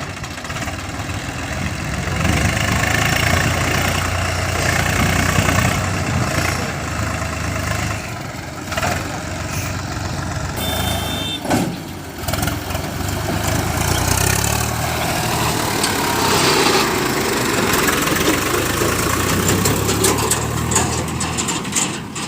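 Diesel engines of a backhoe loader and tractor running steadily at a worksite, the engine note swelling and easing as the machine works, with a brief knock about twelve seconds in.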